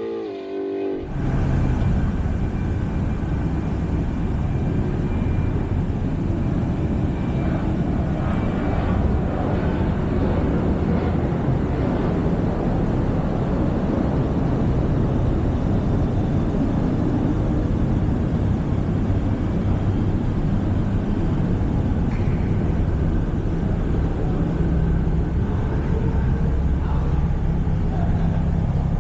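Steady rushing road and wind noise of a car moving at speed, heaviest in the low end, cutting in abruptly about a second in.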